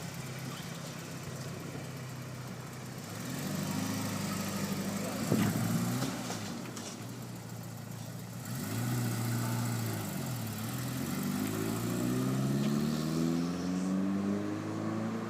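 1989 Porsche 944 Turbo S's turbocharged 2.5-litre four-cylinder engine idling and being revved: a rise and fall about four seconds in, another in the middle, then a slower climb toward the end. A brief sharp knock about five seconds in is the loudest moment. The engine is running again after a no-start fault was repaired.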